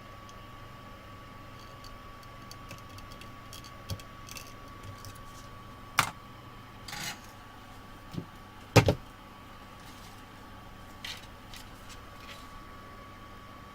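Scattered sharp clicks and knocks, the loudest about six and nine seconds in, over a steady low hum and a faint high whine.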